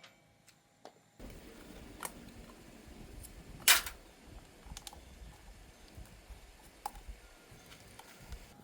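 Scattered light clicks and taps, as of small hard parts being handled, with one sharper click about three and a half seconds in, over a faint low rumble.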